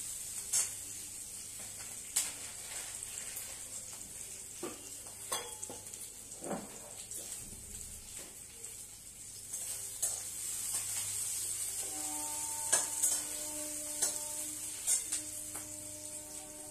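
Mahua fruit and onions frying in oil in an iron kadhai: a steady sizzling hiss, a little louder in the second half, with scattered clicks and scrapes of a spatula against the pan as it is stirred.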